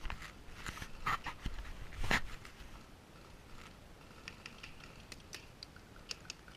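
A person breathing hard, with rustling and small clicks of movement; a few louder rustles in the first two seconds, then quieter scattered ticks.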